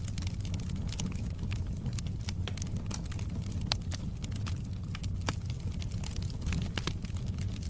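Wood fire burning in a fireplace: a steady low rumble of the flames with irregular sharp crackles and pops, two louder pops around the middle.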